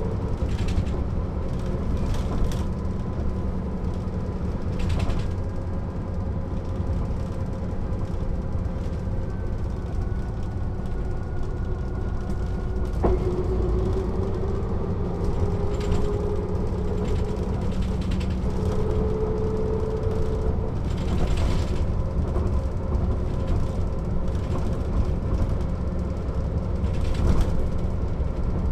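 Mercedes-Benz O 407 city bus under way, heard from inside: the diesel engine and drivetrain running steadily, with whining tones that shift in pitch. One whine drops abruptly about halfway through and then climbs again, and there are scattered short rattles and knocks from the bodywork.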